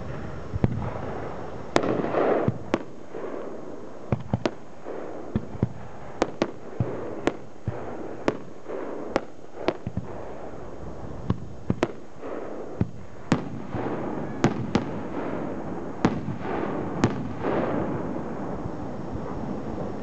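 Aerial firework shells bursting in a rapid, irregular series of sharp bangs, often two in a second, over a continuous noisy wash between the bangs.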